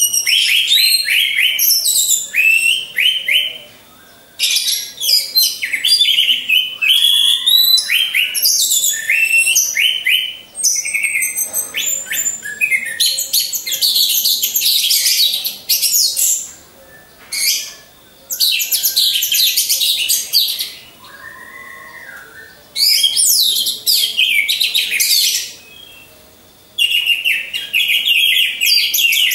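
Orange-headed thrush (anis merah) singing in bursts of rapid, varied high whistles and trills. The bursts last a few seconds each, with short pauses between them.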